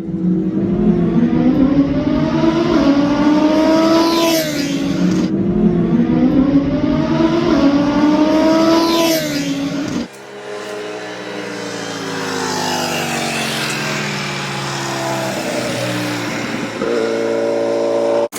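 Ducati Panigale V4 superbike's V4 engine accelerating hard, its note climbing in pitch again and again through the gears. About ten seconds in it cuts abruptly to a quieter run where the pitch falls as the bike slows, settling on a steady note near the end.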